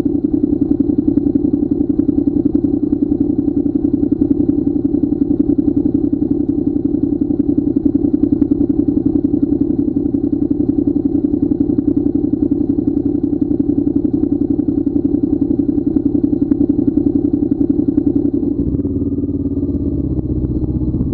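Motorcycle engine running at a steady speed, heard close up with fast, even exhaust pulses. Near the end it gives way to a quieter, different low drone.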